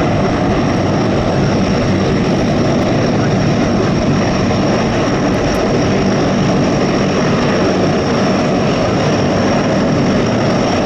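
Aircraft engine running steadily, a continuous loud rush with a faint high whine over it.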